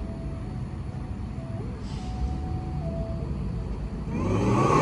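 Car engines rumbling low and steadily, with a sound swelling louder about four seconds in as a car comes closer.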